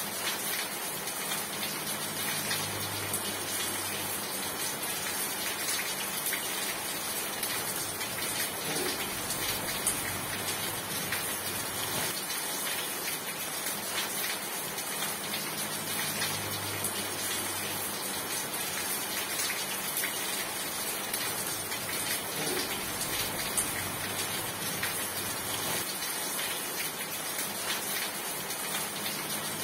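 Steady, heavy rain falling on surfaces: a dense, even hiss.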